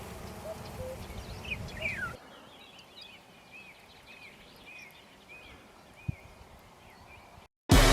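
Wild birds singing outdoors. First come falling whistled notes over low cooing notes and a background rumble. After a sudden change about two seconds in, a quieter bird repeats short arched whistles, about one every half second. Music starts right at the end.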